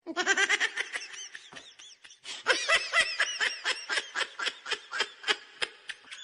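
High-pitched laughter in a quick run of short bursts, about five or six a second, with a brief pause about two seconds in.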